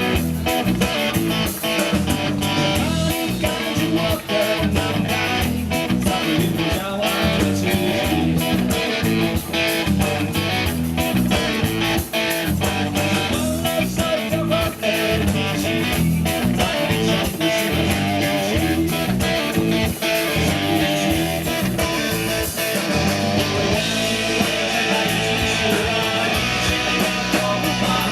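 Rock band playing, with strummed electric guitar, bass and a steady drum beat.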